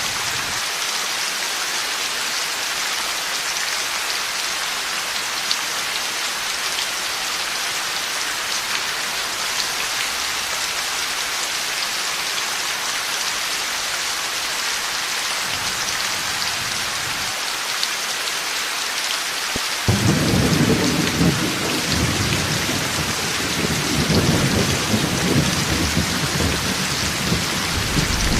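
Heavy rain falling in a steady hiss, with a faint distant rumble of thunder a little past halfway, then a sudden loud thunderclap about two-thirds of the way through that rolls on as a deep rumble.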